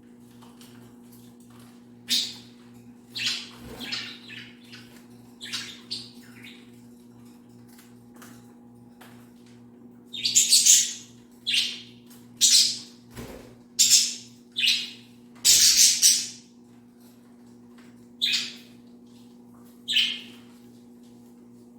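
Budgies bathing: about a dozen short bursts of splashing and wing-fluttering in water, bunched together in the middle and spaced out near the end, with bird chirps.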